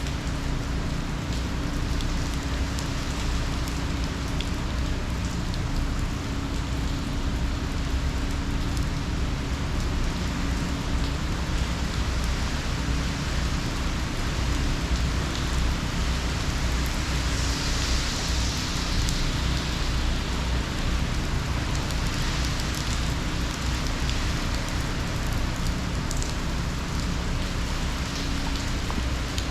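Hurricane Ian's heavy rain pouring down steadily in a dense hiss, with a low rumble beneath it. The hiss swells briefly a little past the middle.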